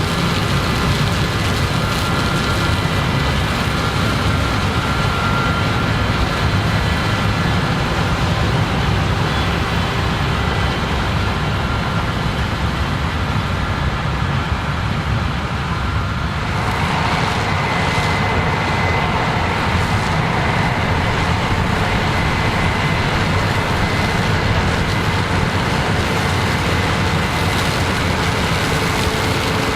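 Combine harvesters and tractors running steadily under load, a dense low engine rumble. A little over halfway through the sound grows brighter and fuller, and a faint steady whine joins in.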